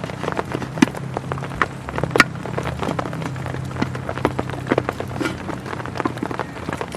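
Heavy rain on a tent, with many separate drops striking the fabric in a dense, irregular stream.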